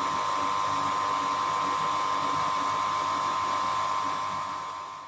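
A steady whirring hum with a high held tone, fading out near the end.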